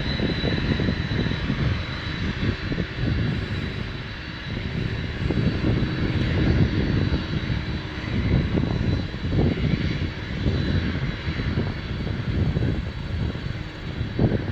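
Boeing 747's jet engines running, a deep rumble that swells and fades with a steady high-pitched whine over it.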